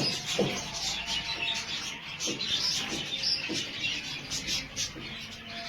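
Many small birds chirping, a dense run of short overlapping calls.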